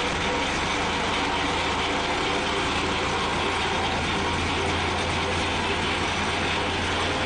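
Tractor engine running steadily with a PTO-driven three-point finishing mower working, a dense even din with a constant low hum.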